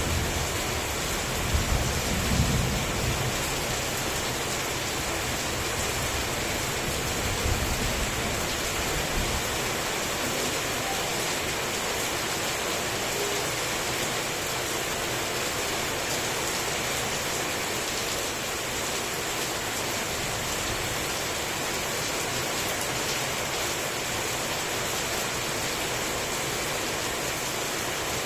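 Heavy rain falling steadily and densely. Low thunder rumbles twice in the first ten seconds: one about two seconds in, another about eight seconds in, then die away.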